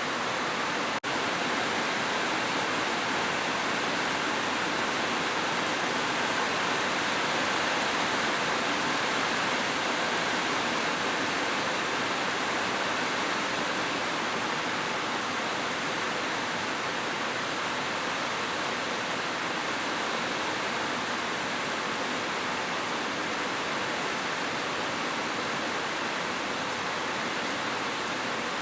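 Heavy rain falling steadily, an even, unbroken hiss with no separate drops standing out. There is a split-second dropout about a second in.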